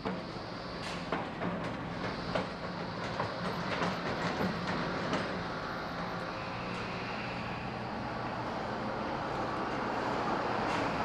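A vehicle running past with a steady rumble, and a run of sharp clacks over roughly the first five seconds.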